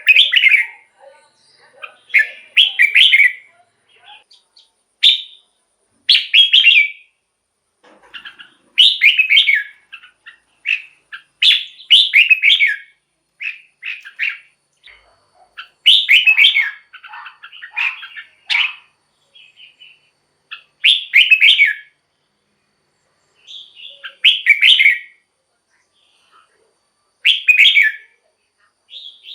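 Red-whiskered bulbul singing: short, loud, warbling phrases about a second long, repeated every two to three seconds.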